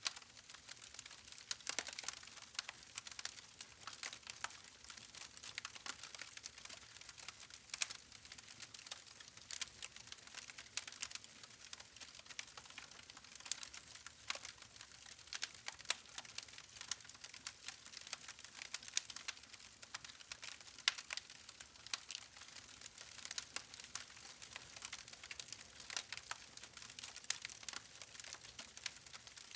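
Wood campfire crackling steadily, with many small irregular pops and snaps over a soft hiss of flames.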